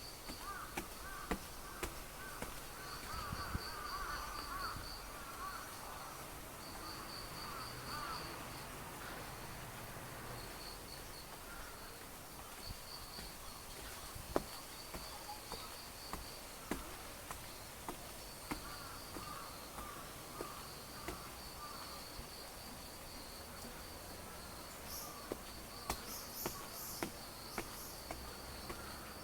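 Insects calling outdoors: a high, fast-pulsing chirr repeated in short phrases a second or two long, with a lower warbling call in the first several seconds and scattered light clicks and taps.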